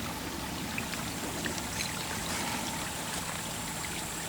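Steady rushing and trickling of flowing river water.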